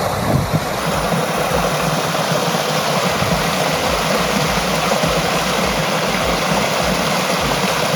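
Steady rushing of river water flowing over rocks, an even continuous noise.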